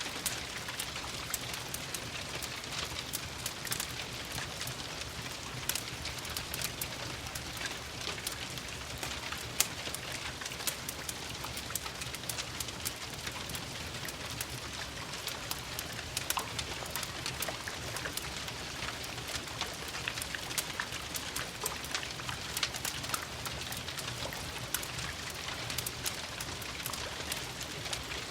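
Steady rain pattering, mixed with a wood fire crackling in a fireplace: many sharp pops scattered throughout over the even hiss of the rain.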